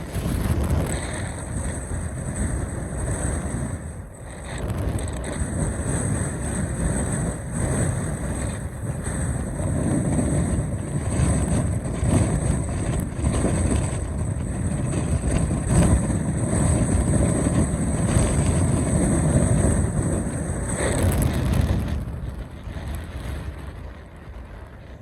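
Strong gusting wind, about 50–60 mph, rushing and buffeting the microphone, swelling and easing from moment to moment and dying down over the last few seconds.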